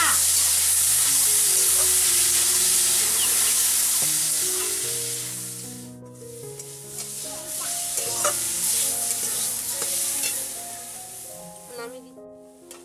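Red spinach leaves sizzling as they stir-fry in a metal karai, a metal spatula stirring and scraping against the pan with scattered clicks. The sizzle is loud for the first six seconds, then quieter. Soft background music plays underneath.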